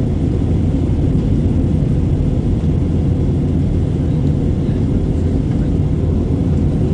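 Airplane noise: a steady, even low rumble that does not rise or fall.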